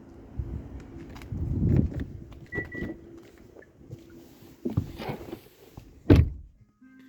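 Handling noises inside a car: scattered clicks and rustling over a low steady hum, a short beep, and a loud thump about six seconds in, like a car door shutting.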